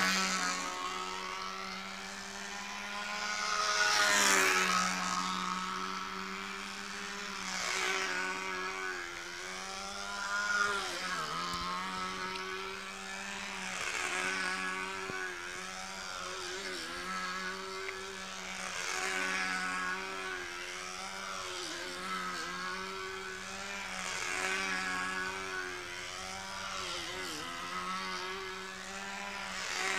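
OS MAX FP 25 model engine running unmuffled at steady full throttle in a control-line model aeroplane, a loud, high-pitched buzz. The pitch rises and falls and the buzz swells and fades every three to four seconds as the plane circles past on its lines.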